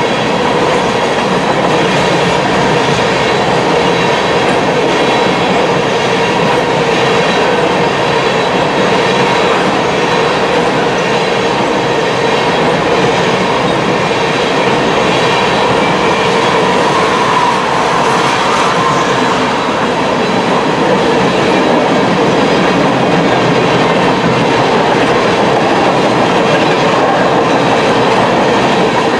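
Tank cars of a Norfolk Southern oil train rolling past at speed: a loud, steady rush and rumble of steel wheels on rail, with a faint steady whine running through it.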